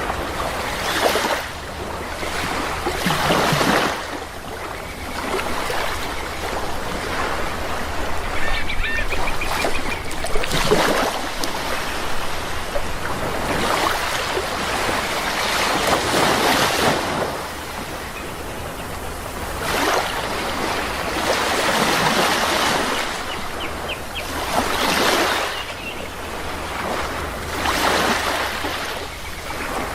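Sea waves breaking and washing in, swelling and easing every few seconds, with a few faint bird calls over the surf.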